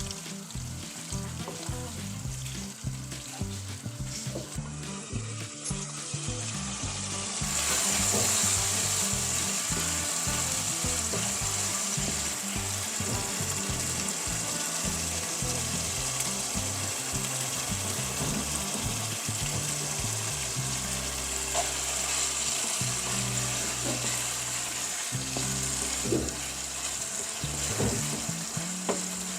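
Chicken curry frying and sizzling in a pan, the hiss jumping louder about seven seconds in and staying loud.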